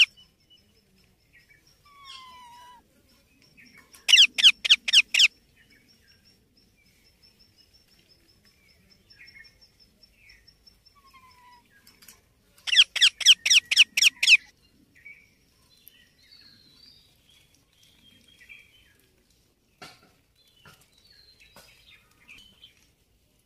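Baby Indian ringneck parrot calling in two bursts of rapid, repeated high screeches, each lasting one to two seconds and coming about eight seconds apart, with faint softer chirps in between.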